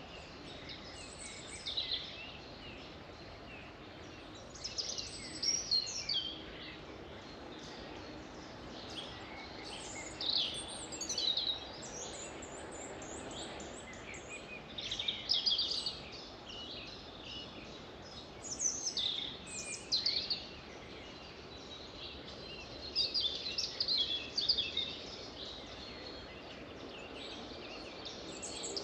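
Songbirds singing in short, high chirping phrases every few seconds over a steady background hiss.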